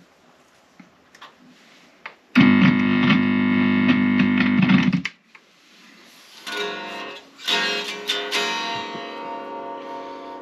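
Chapman SAR63 electric guitar played through a Spark cab amp. After a few small clicks, a loud chord is held for about two and a half seconds and cut off sharply, then two more strummed chords ring out and slowly fade.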